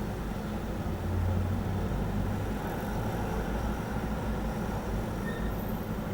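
Steady low rumble of a vehicle engine running near a level crossing, swelling slightly about a second in.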